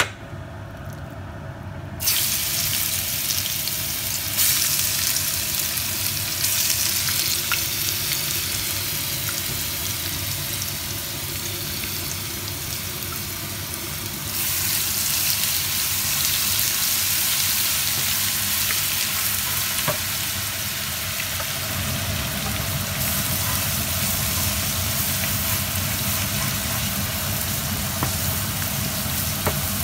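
Ground garlic, onion and ginger paste sizzling in hot olive oil in a non-stick frying pan while being stirred. The sizzle starts suddenly about two seconds in, as the paste goes into the oil, and stays steady; a low hum joins in about two-thirds of the way through.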